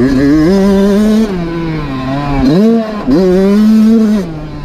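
Dirt bike engine revving hard under throttle, holding high, easing off, then winding up again twice and holding before backing off near the end.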